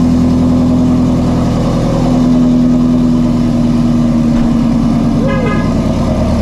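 Ford Mustang Shelby GT350's 5.2-litre flat-plane-crank V8, fitted with long-tube headers, idling steadily and loudly shortly after a cold start.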